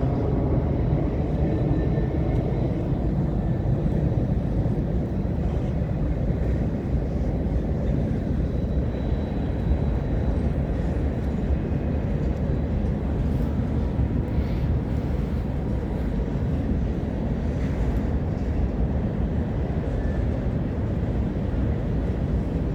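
A mixed freight train rolling past, a steady low rumble of wagon wheels on the rails with faint thin tones above it.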